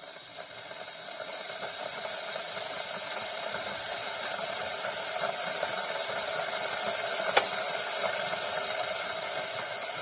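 Stainless-steel electric kettle heating water: a steady hiss that grows louder over the first several seconds as the water warms. A single sharp click comes about seven seconds in.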